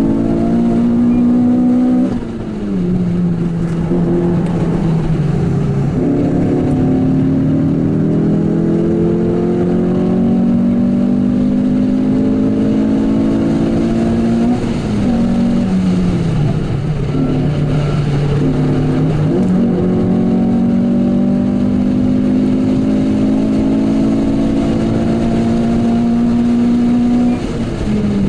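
Renault Clio 197/R27's 2.0-litre four-cylinder engine heard from inside the cabin, driven hard. The revs climb slowly for several seconds at a time, ease off three times and jump back up twice.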